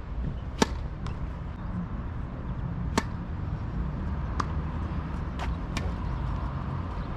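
Tennis ball struck by rackets in a rally: two sharp hits about two and a half seconds apart, the second the loudest, then several fainter ball knocks, over a steady low rumble.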